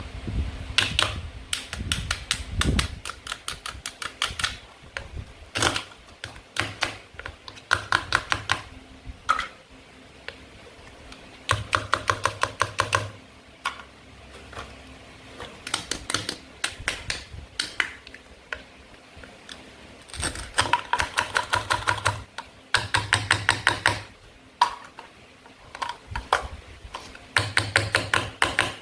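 Plastic toy food being cut and handled: runs of rapid clicking and ratcheting, each lasting a second or two, with short pauses between them.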